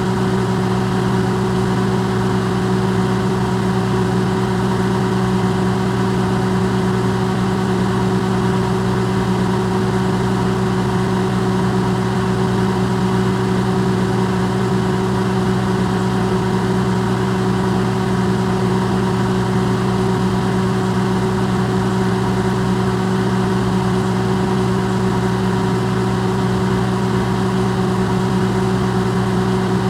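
Electrolux microwave oven running, recorded amplified: a steady low hum over an even hiss, unchanging.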